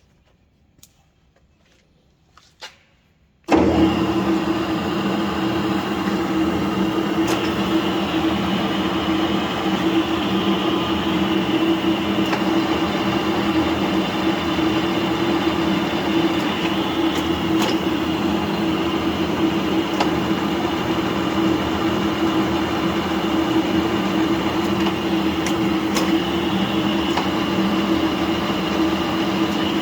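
FU-321 universal milling machine being started: a few faint clicks, then about three and a half seconds in its motor and gear drive start abruptly and run at a steady hum with a steady whine.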